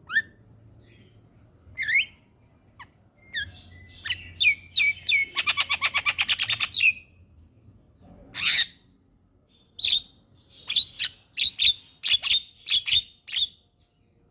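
Javan myna calling: scattered whistled chirps and squawks, a fast rattling call of about nine notes a second midway, then a quick string of sharp chirps.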